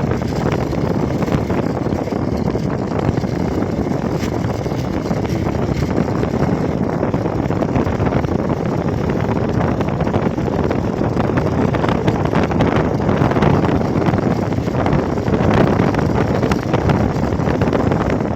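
Steady wind rush over the microphone of a moving Hero XPulse motorcycle, with the single-cylinder engine's running sound mixed into it.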